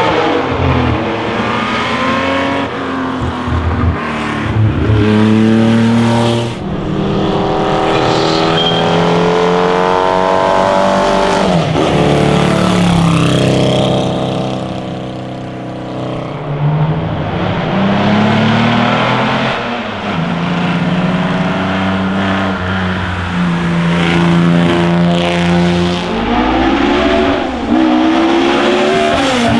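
Classic racing car engines accelerating hard uphill, the pitch climbing and dropping back with each gear change, as cars pass one after another. Sharp falls in pitch as cars go by come about twelve seconds in and again near the end.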